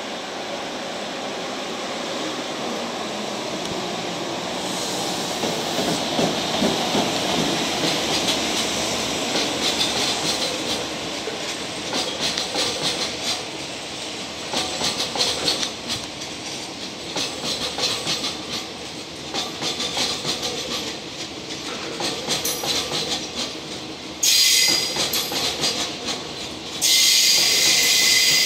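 Freight train of Chiki flat wagons loaded with long rails, hauled by an EF210 electric locomotive, rolling slowly past with wheels clattering over rail joints. Near the end a loud, high-pitched wheel squeal starts, stops briefly and starts again as the train brakes.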